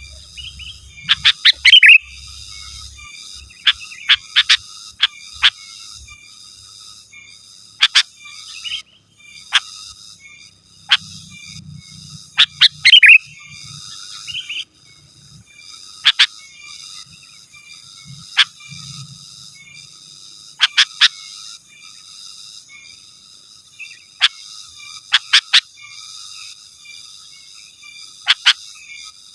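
Sooty-headed bulbul (kutilang) calling vigorously: loud, sharp chirps in quick groups of two to four, repeated every one to three seconds, over a faint steady high-pitched background.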